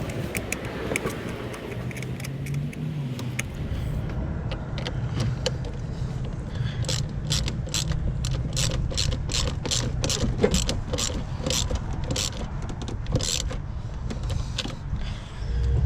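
The 2007 Mustang GT's 4.6-litre three-valve V8 running steadily. For several seconds in the middle, a regular clicking sounds over it, about two clicks a second.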